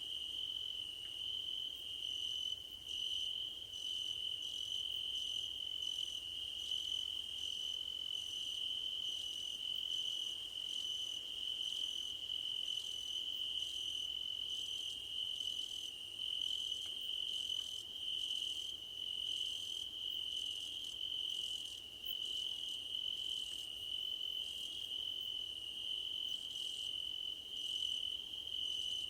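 Crickets singing in a grassy field: one unbroken, steady high-pitched trill, with a second, higher-pitched chirping pulsing about twice a second over it.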